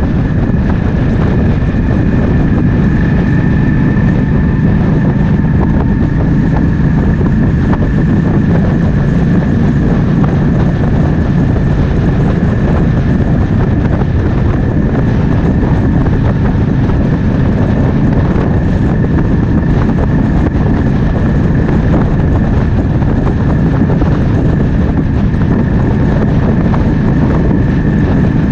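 Triumph Speed Twin 1200's parallel-twin engine running steadily at cruise on the move, with wind rushing over the microphone.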